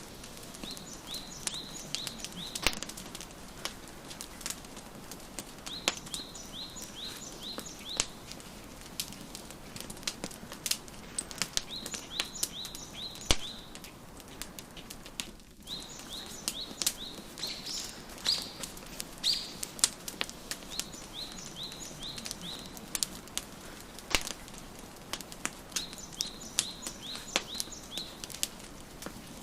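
Wood fire crackling, with sharp pops scattered throughout, while a songbird sings a short phrase of quick down-slurred notes about every four to six seconds.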